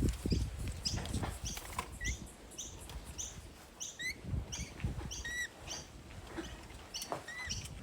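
Parrots chirping in short, high calls about twice a second, over rustling and soft tapping.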